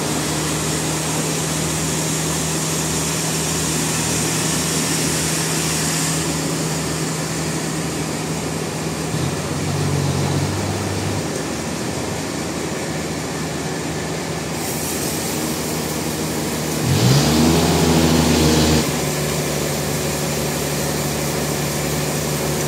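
An engine running steadily. About 17 s in it revs up sharply, runs louder for about two seconds, then settles back to its steady note.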